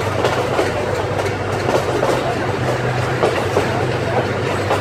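Moving passenger train heard from an open coach window: wheels running on the rails with a steady low hum under the rumble and irregular clicks from the track.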